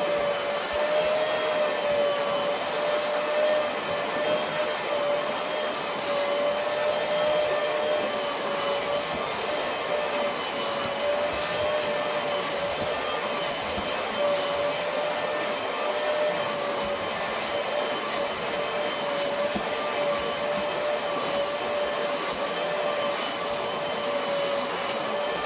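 A vacuum cleaner motor running steadily with a constant whine, with no pauses or changes in speed.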